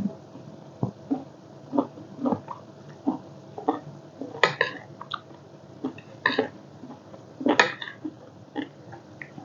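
A person eating seafood papaya salad close to the microphone: wet chewing and lip smacking in short separate bursts about once a second, a few of them sharper clicks.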